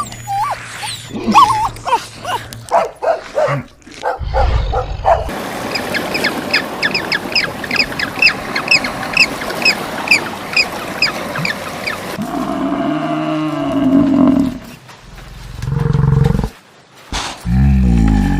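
A series of different animal calls, one after another: quick calls at first, then a long run of short high chirps, then lower, drawn-out calls and roars near the end.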